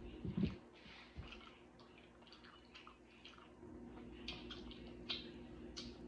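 Close-miked chewing of a mouthful of food with the lips closed: scattered small wet mouth clicks and smacks. A single low thump sounds about half a second in.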